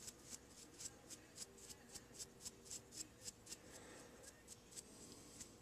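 Small cleaning brush scrubbing packed-in hair off a hair-clipper blade in quick, even strokes, about four a second, faint, thinning out near the end.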